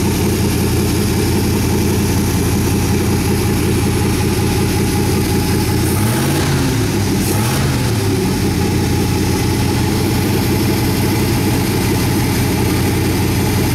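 Chevrolet small-block 305 HO 5.0 L V8, fed by a four-barrel carburettor, idling steadily, with two quick throttle blips about six and seven and a half seconds in, each rev rising and dropping straight back to idle.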